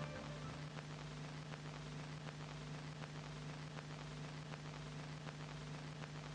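Faint steady hiss with a low hum and light scattered crackles.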